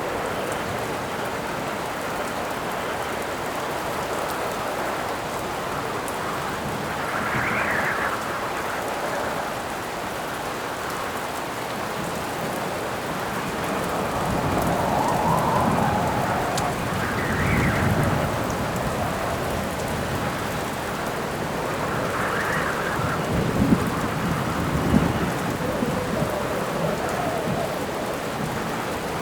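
Steady heavy rain with gusts of wind howling, rising and falling in pitch every few seconds, and low thunder rumbling about halfway through and again later on. Two sharp cracks come near the end.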